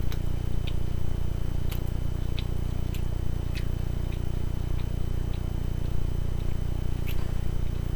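Mouth sounds of chewing chicken wing: a scattering of short, sharp wet clicks, mostly in the first half, over a steady low hum.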